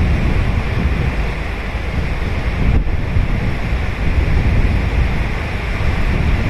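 Ocean surf breaking and washing onto a sandy beach, a steady wash of water noise, with wind buffeting the microphone as a low, fluttering rumble.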